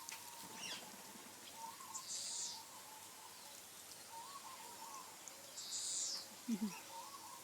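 Caged birds calling: two short, harsh, high calls, about two seconds in and again near six seconds, over a faint repeated warble. A brief low falling sound comes just after the second harsh call.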